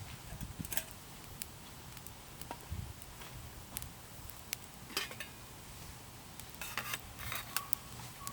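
Light clinks and clicks of metal camp cookware and utensils being handled, scattered and irregular, with a small cluster of clinks about five seconds in and another near seven seconds.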